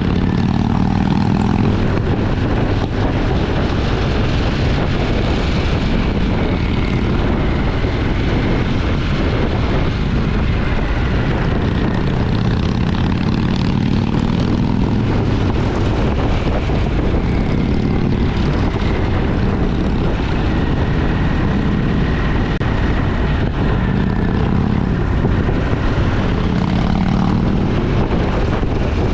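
Motorcycle engine running steadily on the move, its drone rising and falling slightly with the throttle, under a constant rush of wind noise.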